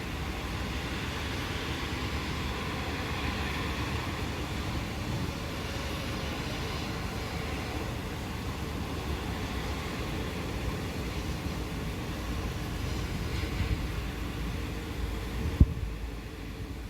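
Steady rain falling, a continuous hiss over a low rumble. Near the end there is a single sharp knock, after which the hiss becomes thinner.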